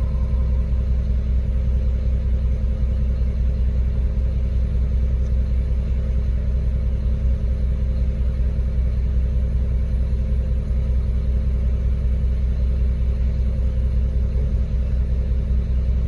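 Concrete mixer truck's diesel engine running steadily with an even, low rumble.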